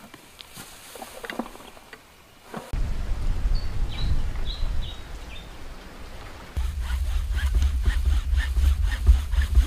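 A few short, high, falling chirps from a small bird in a tree, about halfway through, over a deep low rumble that starts suddenly and grows stronger near the end with a fast, even clicking.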